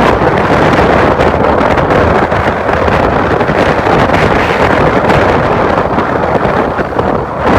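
Loud, steady rush of wind buffeting the microphone of a camera on a moving motorcycle at speed, with road noise underneath.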